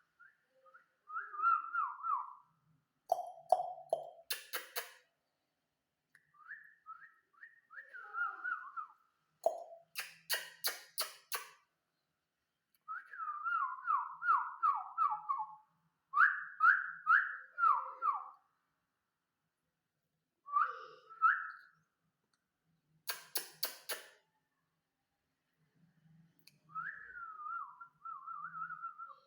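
Parrot whistling short phrases of quick falling notes, broken now and then by clusters of four or five sharp rapid clicks.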